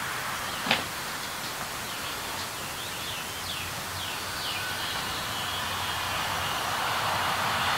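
A single sharp click a little under a second in, then a run of quick falling bird chirps over a steady outdoor hiss.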